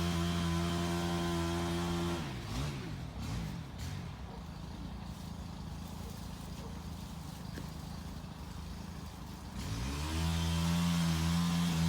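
A petrol engine running steadily, then slowing down about two seconds in and running low and quiet for several seconds before revving back up to speed near the end.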